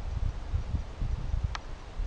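Wind buffeting a trail camera's microphone in uneven low rumbling gusts over a steady hiss, with one brief high chirp about a second and a half in.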